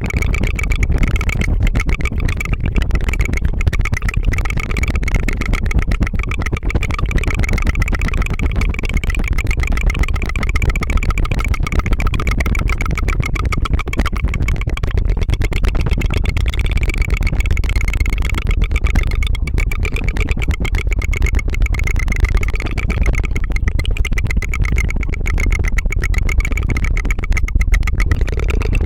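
A person rapidly fluttering the tongue close to the microphone, a continuous fast rattling trill like a small engine putt-putting, without pause.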